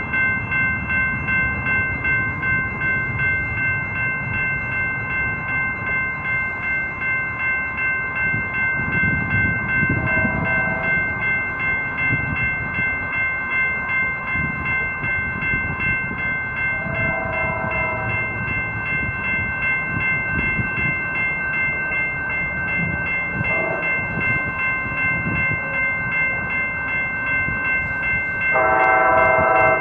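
Railroad crossing bell ringing steadily while an approaching train rumbles. The train's horn sounds four times, long, long, short, long: the standard grade-crossing warning signal.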